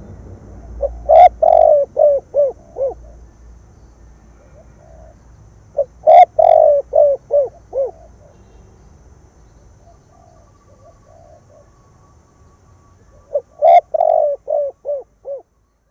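Spotted dove (cu gáy) cooing: three song phrases, each a loud burst of coos followed by a run of four or five shorter coos.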